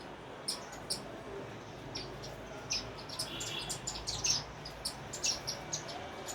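Several sparrows chirping, many short, sharp chirps overlapping at an irregular pace.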